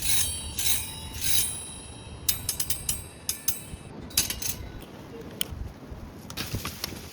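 Metal clinking and rattling in a string of short, sharp strikes, some ringing briefly, over a steady low rumble of wind on the microphone.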